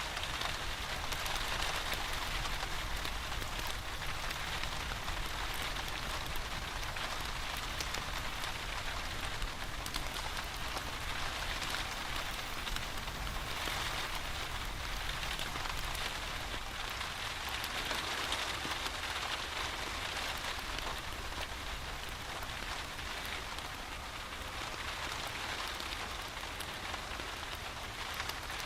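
Steady rain falling, a dense even patter of drops that does not let up.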